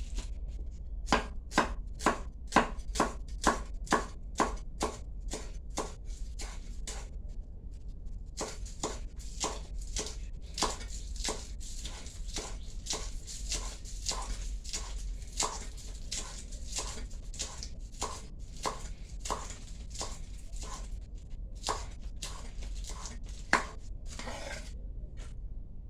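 Knife chopping ingredients on a cutting board in steady strokes, about two to three a second, with a short pause partway through.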